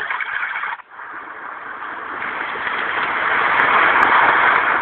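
Avantek white noise machine playing a recorded waterfall sound that cuts off under a second in as the next sound is selected; an ocean-waves track then swells up gradually into a steady rush of surf.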